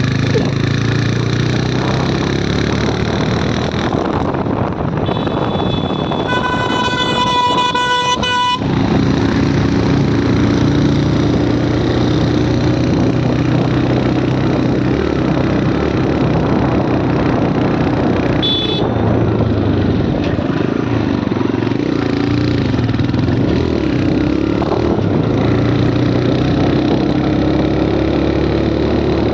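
Motorcycle engine running under way with steady road and wind noise. A vehicle horn sounds for about two seconds about six seconds in, and a short high beep comes near the middle.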